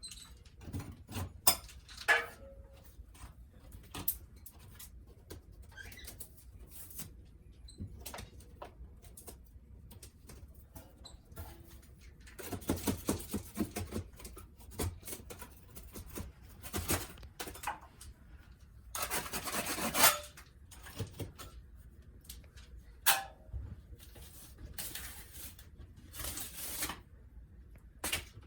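Intermittent scraping strokes, two longer runs of scraping near the middle, with scattered clicks and knocks between them.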